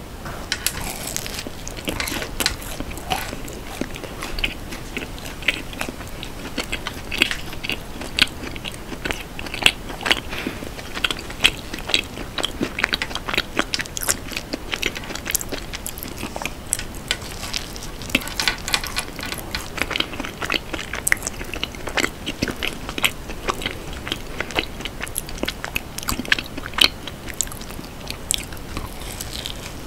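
Close-miked chewing and biting of a mugwort brownie with a crumble topping: a steady run of irregular small crunches and mouth clicks.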